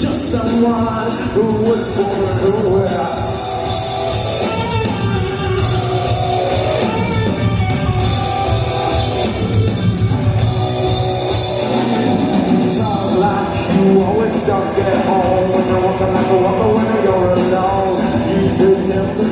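Live rock band with singing, drums and guitar playing through a PA.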